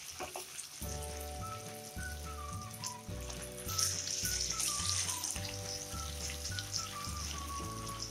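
Potato cubes sizzling as they fry in hot mustard oil in a kadai; the sizzle grows louder about four seconds in. Background music with a steady melody plays throughout.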